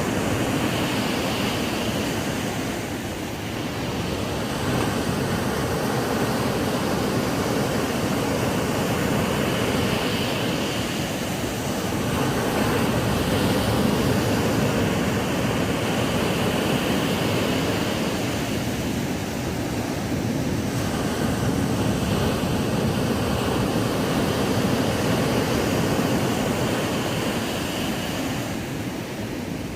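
Ocean waves breaking and washing onto a sandy beach, a steady rush of surf that swells and eases every few seconds.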